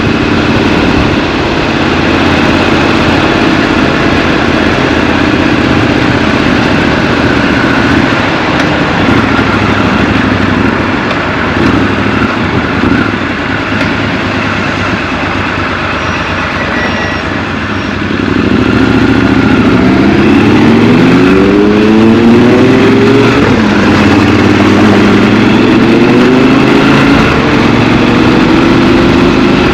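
Triumph Scrambler 1200 XC's 1200 cc parallel-twin engine running steadily at low revs, then, about two-thirds of the way in, accelerating with the pitch rising and dropping back through several upshifts.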